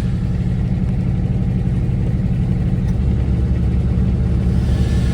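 Kubota's engine running steadily, growing a little louder and deeper about three seconds in, while it powers the winch.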